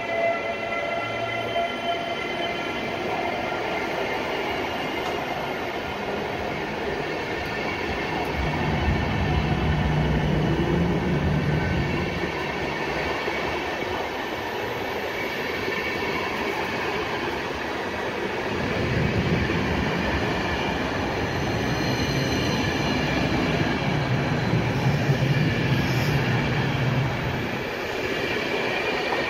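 A train moving through a station, with several high steady tones that fade over the first few seconds. Heavier rumbling comes in two stretches, about a third of the way in and again through much of the second half.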